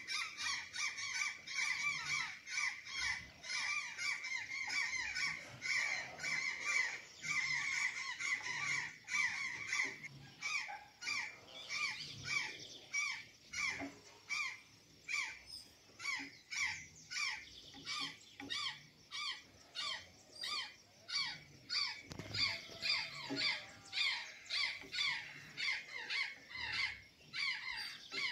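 Azure jay giving a long run of short, harsh calls, about two to three a second, without a break.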